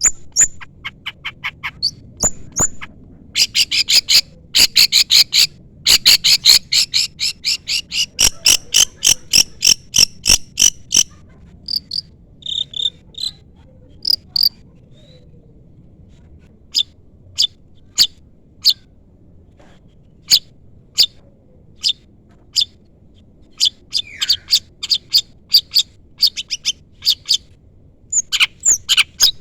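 Long-tailed shrike (cendet) calling in fast trains of sharp, clicking chirps, several notes a second. The calls come thick at first, thin out to scattered notes around the middle, then pick up again near the end.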